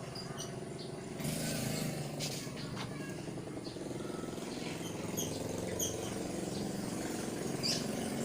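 Small birds chirping in short, scattered high calls, over a low steady rumble that gets louder about a second in.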